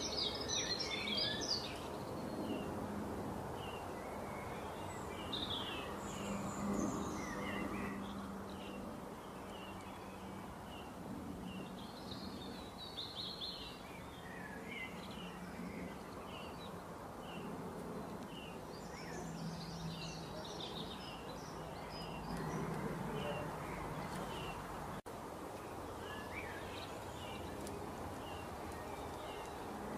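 Birds chirping: one short high chirp repeats over and over, with bursts of fuller song every few seconds. A faint low hum runs underneath.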